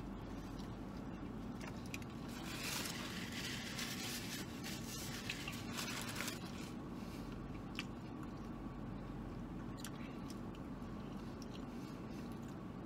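A man biting into and chewing a large double burger, with soft wet chewing and small clicks and crunches, and louder stretches of noise about three and six seconds in. A steady low hum runs underneath.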